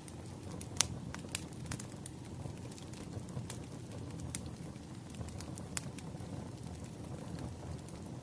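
Crackling wood fire: a steady low rumble of burning logs with scattered sharp pops and crackles, the loudest about a second in.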